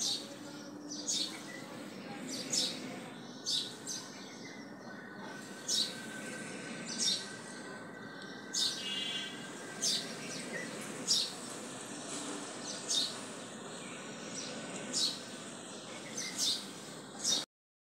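A small bird chirping repeatedly, short high chirps about once a second, over a steady background hiss; the sound cuts off suddenly near the end.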